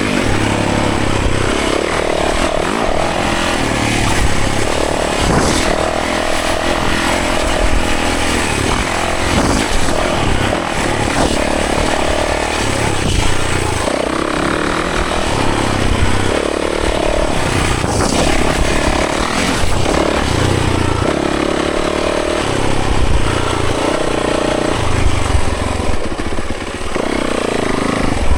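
Yamaha 450 dirt bike's four-stroke single-cylinder engine under riding load, the throttle opening and closing every second or two so the engine note keeps rising and dropping.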